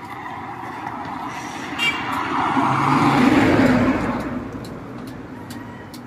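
A motor vehicle passing close by on the road, growing louder to its peak about three seconds in and then fading away.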